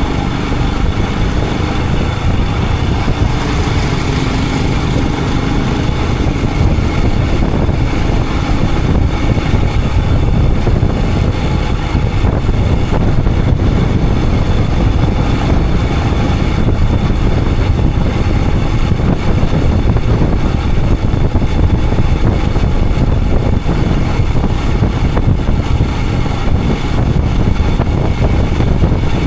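Royal Enfield Himalayan 411's single-cylinder engine running steadily as the motorcycle rides along, under a heavy, even rumble of wind on the camera's microphone.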